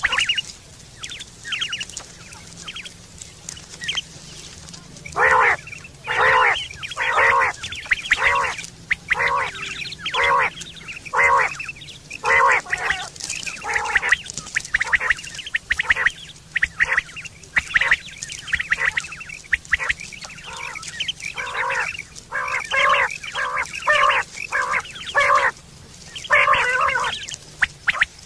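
Common quail calling: short, nasal, ringing calls repeated about twice a second in runs, with brief pauses between the runs.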